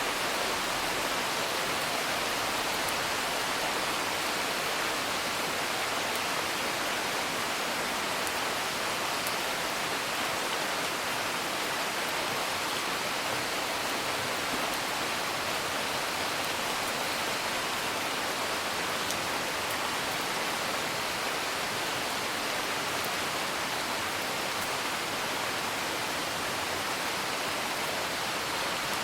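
Steady rain hissing evenly without a break, with a few faint crackles of a wood fire.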